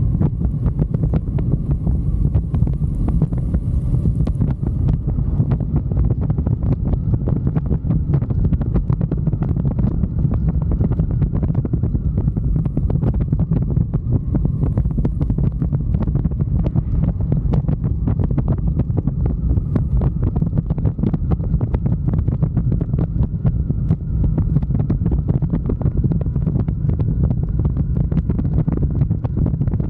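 Wind buffeting a microphone on a moving motorcycle: a heavy, steady rumble with crackling gusts, with the bike's running and road noise underneath.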